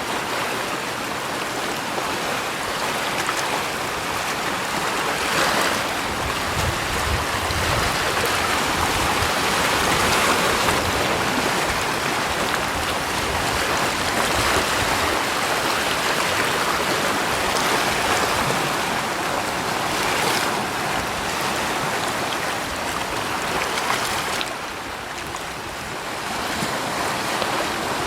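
Steady rushing water, a continuous hiss that swells slightly and eases, dipping briefly a few seconds before the end.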